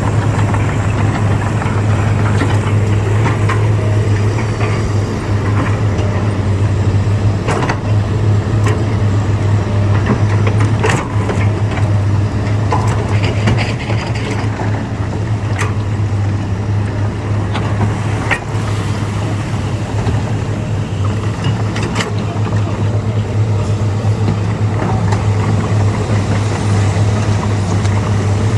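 Heavy diesel engine of an earthmoving machine running steadily at a low drone, with a few sharp clanks scattered through.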